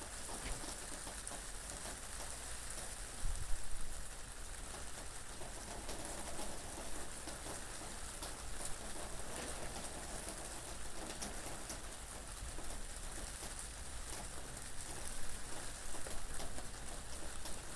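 Steady rain falling, with scattered drop ticks and a brief gust of wind about three seconds in; a bird, tagged as a dove, calls faintly in the background.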